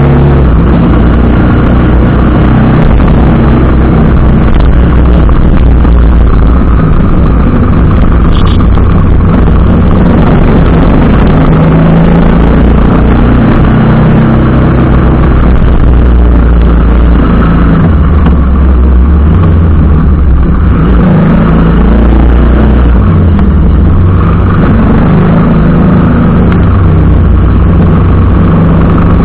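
TVS Apache RR310 single-cylinder motorcycle engine running on the move, its pitch shifting up and down with the throttle, under a heavy, loud low rumble of wind on the microphone. A brief high tone sounds about eight seconds in.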